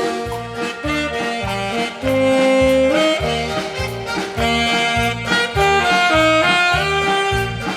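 Saxophone playing a melody in held and moving notes over a swing-style accompaniment with a steady bass beat.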